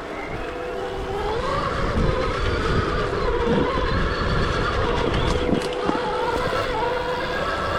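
Stark Varg EX electric dirt bike's motor whining, its pitch rising and falling with the throttle, over a low rumble, with a few sharp knocks midway.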